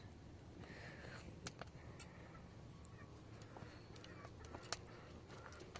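Quiet background with a faint short animal call about a second in and a few light sharp clicks, the loudest near the end.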